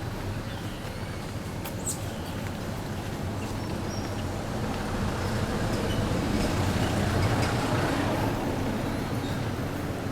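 A motor vehicle passing by: a low engine and road noise that grows louder to a peak about seven seconds in, then fades.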